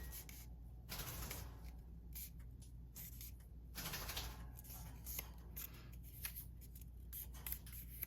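Paper ephemera being handled: soft rustling and shuffling of paper pieces, with a few light ticks and taps in the second half.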